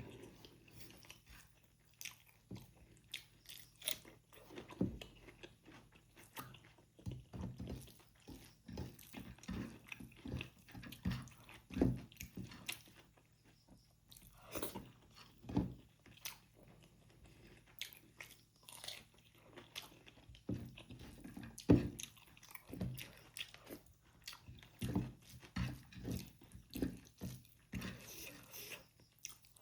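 A person chewing and eating rajma chawal, kidney bean curry with rice: irregular soft smacks and clicks of the mouth.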